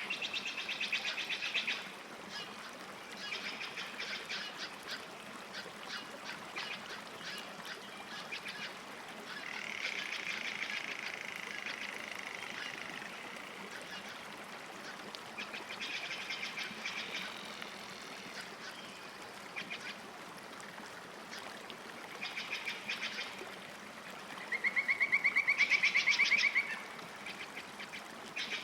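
Bird calling at a lake in short bursts of fast, chattering trills, one every few seconds, with a longer, louder trill near the end, over a faint steady background hiss.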